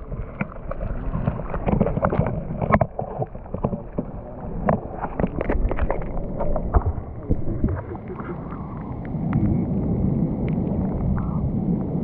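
Rock-pool water splashing and sloshing close by, with many small clicks and knocks over the first eight seconds, settling into a steadier wash of noise near the end.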